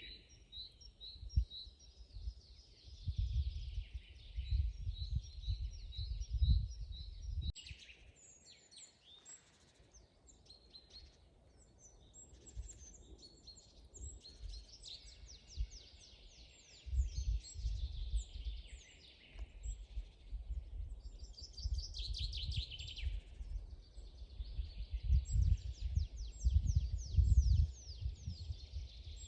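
Several small songbirds singing, with fast series of high repeated chirps and trills overlapping. Bouts of low rumble come and go underneath, loudest early on and again through the second half.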